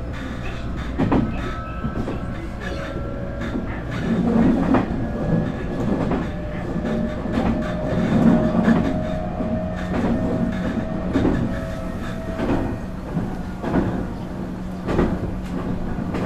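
Nankai 8300 series IGBT train running, heard inside motor car MoHa 8361. Its VVVF-inverter-driven, totally enclosed induction motors give a faint whine that rises slowly in pitch and fades about three quarters in. The wheels clack over the rail joints throughout.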